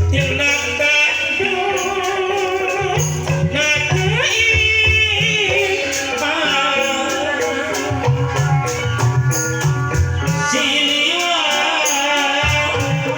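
Live Jaipong music from a Sundanese ensemble: drums and a metallic rattle keep the rhythm under a melody line that slides and wavers in pitch, rising twice in long glides.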